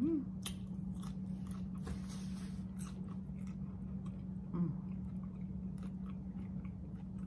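A person chewing a mouthful of brisket burrito close to the microphone, with wet mouth clicks and crunches. A steady low hum runs underneath, and a short voiced "mm" comes about four and a half seconds in.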